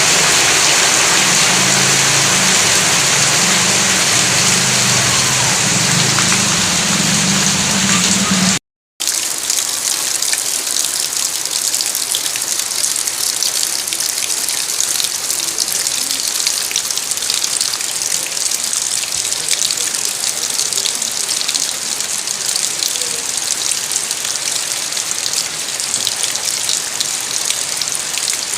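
Heavy rain pouring down steadily. About nine seconds in the sound cuts out for a moment, then resumes as a thinner, hissier patter of countless drops.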